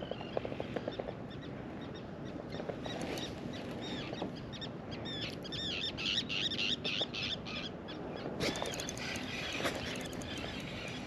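Birds chirping in runs of short, quick calls, sparse at first and busiest from about five seconds in, over a steady low background hush.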